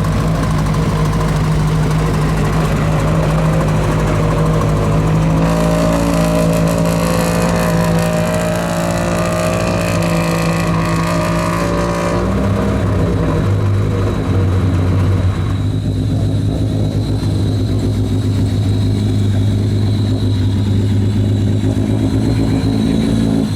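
Rally car engine running at steady held revs, then dropping to a lower steady note a little past halfway. A hiss rides over the engine for several seconds in the first half.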